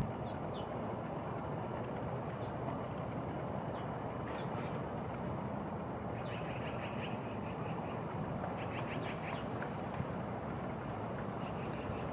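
Steady rushing wind noise, with small birds calling over it: many short, high, falling chirps and a couple of quick trills in the middle.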